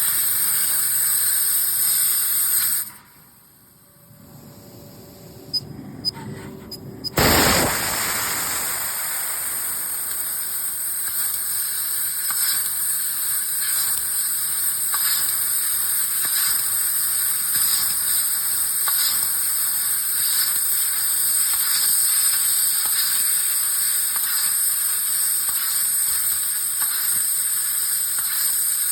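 Fibre laser cutting 3 mm 304 stainless steel with a compressed-air assist jet: a steady loud hiss with a crackling sizzle. About three seconds in it cuts off to a quiet stretch with a few clicks, then restarts with a sudden blast about seven seconds in and the hissing cut carries on.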